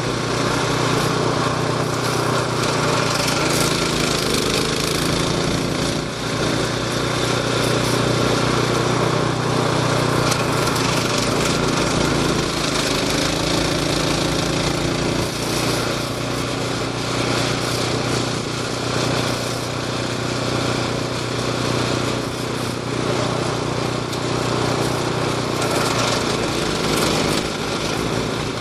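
A small engine on a snow-clearing machine running steadily; its pitch shifts slightly about halfway through.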